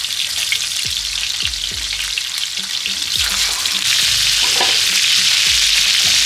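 Food sizzling in hot oil, a dense frying hiss that starts abruptly and grows louder about four seconds in.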